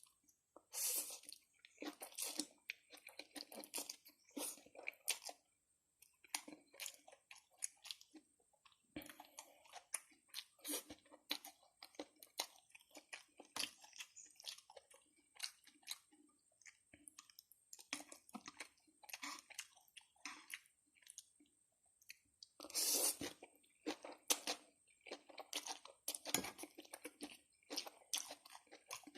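Close-up chewing and wet mouth smacking of someone eating spicy instant noodles, an irregular run of small clicks and squishes with louder, denser bursts near the start and again about two-thirds of the way through.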